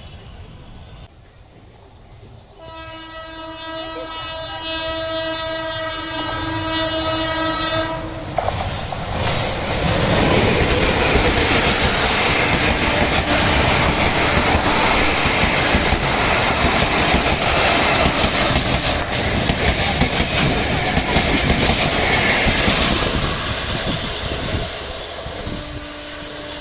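Bangladesh Railway train sounding one long horn blast of about five seconds, then passing close by with loud wheel clatter on the rails for about fifteen seconds, fading near the end.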